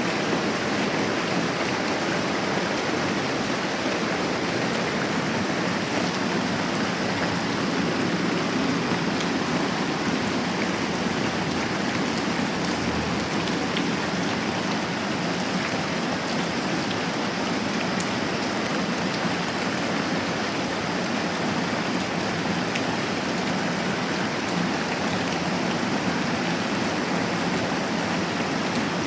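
Moderate rain falling steadily.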